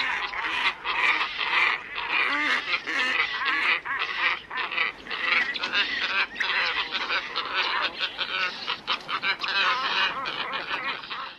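A flock of ibises calling together: many harsh, honking calls overlapping in a dense, continuous chorus that stops abruptly near the end.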